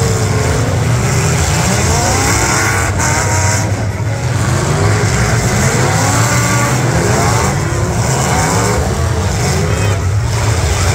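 Several demolition-derby cars' V8 engines running and revving hard together, their pitch repeatedly rising and falling over a steady low rumble.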